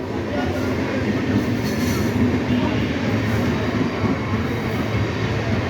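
Suburban electric local train running, a steady rumble of wheels on the rails.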